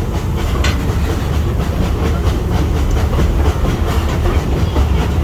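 Zoo train rolling along its track, heard from a passenger car: a steady low rumble of wheels on rail with occasional clacks.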